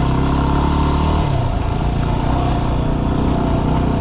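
Yamaha WR250R dual-sport motorcycle's single-cylinder four-stroke engine running as it is ridden, its pitch shifting about a second in.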